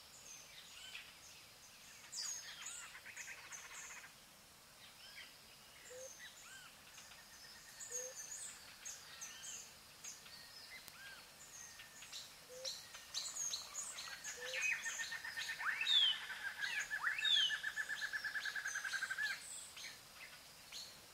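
Birds chirping and calling, with many short high chips throughout. A long, even, rapid trill starts about two-thirds of the way in and lasts about five seconds. It is the loudest part.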